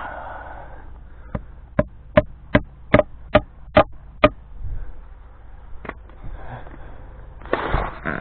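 A hammer striking eight times in a quick, even run of about two and a half blows a second, then one more blow a second and a half later, as the wire cross is fastened on a wooden fence H-brace. A short scuffling noise comes near the end.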